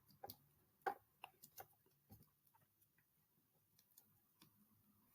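Near silence broken by faint, irregular clicks of a computer keyboard, a dozen or so light taps.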